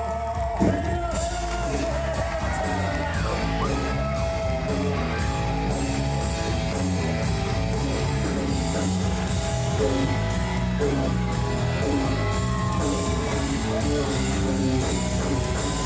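Live country-rock band playing the song's instrumental ending: guitar lines with bent notes over bass and a steady drum beat, with a sharp drum hit about half a second in. The sound of an amplified band in a large hall.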